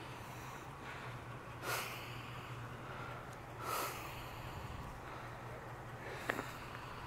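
Two short sniffs close to the microphone, about two seconds apart, over a low steady hum, with a sharp click near the end.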